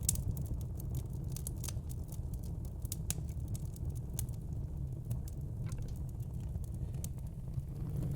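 Wood fire crackling in a fire pit, with frequent sharp pops over a low steady rumble; the loudest pop comes right at the start.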